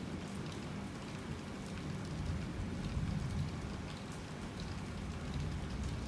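Heavy rain falling steadily, with a low rumble underneath and scattered individual drops ticking.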